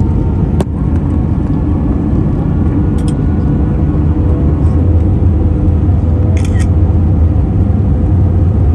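Airbus A320 cabin noise: a loud, steady low rumble of engines and airflow, with a few light clicks.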